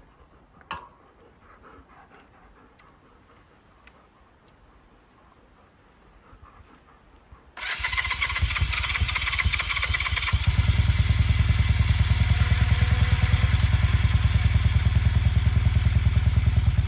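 Old Honda motorcycle engine starting: a few faint clicks, then about seven seconds in the engine catches abruptly, runs rough for a couple of seconds, and settles into a steady, evenly pulsing idle.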